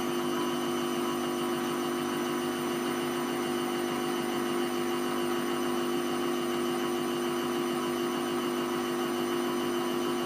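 Hoover Vision Tech washing machine running steadily partway through a 40°C mixed wash cycle: a constant machine hum with a few steady tones and no change in speed.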